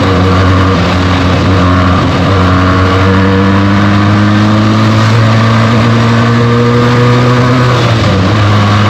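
Benelli TNT 300's 300 cc parallel-twin engine running through its stock exhaust under riding load. The revs climb slowly for several seconds, then drop a little near the end.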